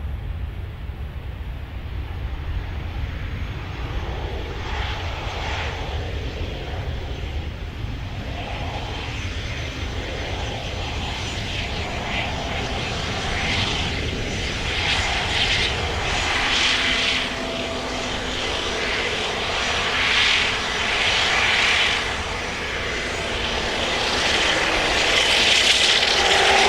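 Cessna aircraft engine running as the plane taxis along the runway, growing louder toward the end as it comes closer.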